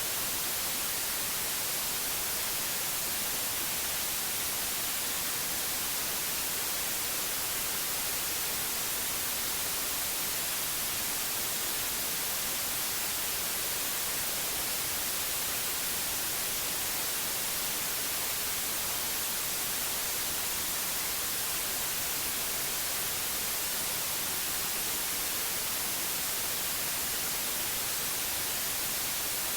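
Steady synthetic white noise: an even, unchanging hiss that is brightest in the high treble.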